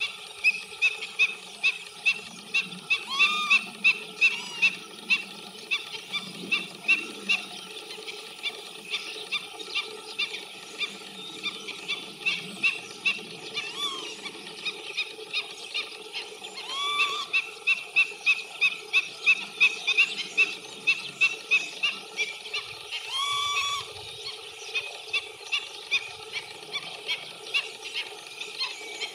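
A bird giving short, sharp calls in a quick series, about two or three a second, with a few rising notes mixed in.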